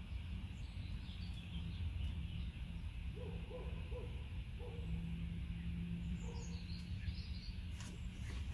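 Birds calling outdoors: a few short, low hooting or cooing notes in the middle, and small birds chirping now and then, over a steady low rumble.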